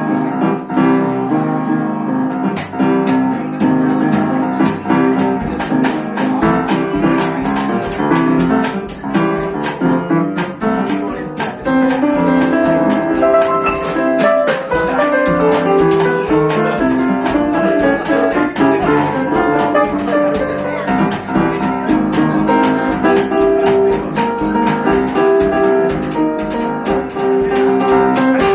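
Live jazz band playing a standard, with sustained pitched notes and a steady beat of sharp ticks coming in about two seconds in.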